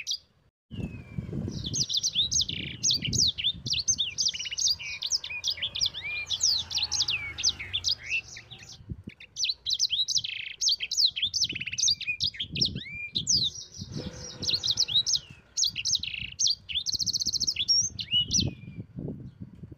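Yellow-fronted canary (sanger) singing a long, fast song of rapid chirps and sweeping whistled notes, with a quick buzzy trill near the end. Low thumps and rumble run underneath.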